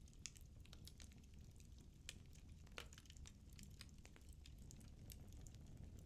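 Firewood burning in a fireplace: faint, irregular crackles and small pops over a low, steady rumble of the flames, with a sharper pop a little before the middle.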